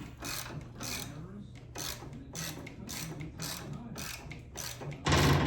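A hand ratchet clicking in a steady run of repeated strokes as a fastener is worked, with a louder knock near the end.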